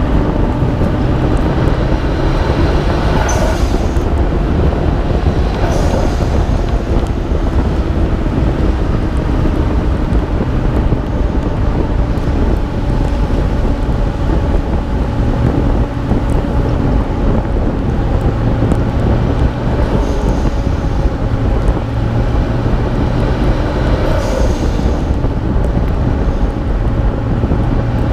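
Nissan Skyline R32 GT-R's twin-turbo straight-six running under load on a drive, with heavy wind and road noise at a hood-mounted microphone. There are short hissing blow-off valve releases a few times as the throttle lifts.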